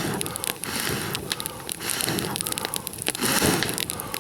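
A person blowing on a campfire of dry resinous spruce and fir kindling in repeated puffs about a second apart, to fan up the flames. The burning wood crackles and pops throughout.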